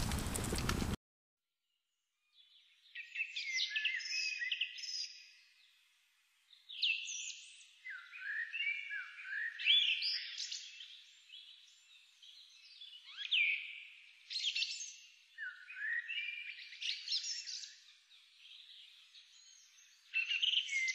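A songbird singing short, varied, chirpy phrases, about one every two seconds, with no background noise beneath them. Before the singing, about a second of outdoor hiss cuts off abruptly.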